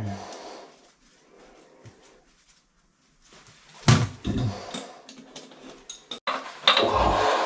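Knocks, scrapes and clatter of tools or parts being handled in a small room: a few separate bursts near the start, around the middle, and a longer, louder cluster near the end.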